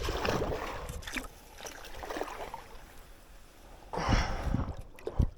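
Kayak paddle strokes in still swamp water, splashing and dripping, with a few dull knocks near the end.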